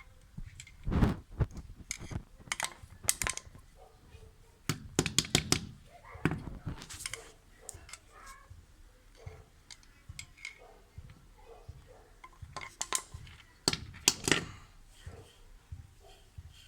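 Irregular clicks, scrapes and knocks of hand tools working inside a removed washing machine motor to get out dried mouse remains, with louder clusters about a second in, around five seconds and around fourteen seconds.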